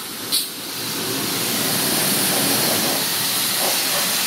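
Car-wash pressure washer wand spraying a high-pressure jet of water onto a greasy leaf blower. The steady hiss builds over the first second or so and then holds, after a short click about half a second in.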